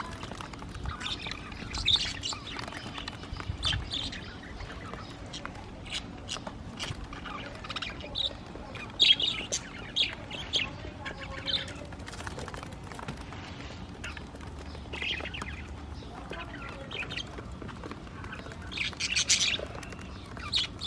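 A group of budgerigars chirping and squawking in short, irregular calls, with louder bursts of chatter about two seconds in, around nine seconds and near the end.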